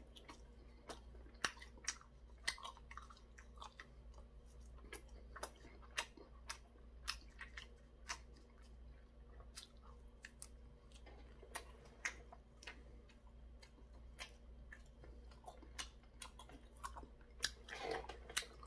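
A person chewing crisp battered fried twigim with the mouth close to the microphone: irregular crunches and wet mouth clicks, about one or two a second.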